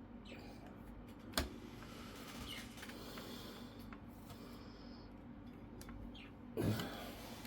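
Pet birds chirping faintly in short falling calls, with a sharp click about a second and a half in and a louder thump near the end.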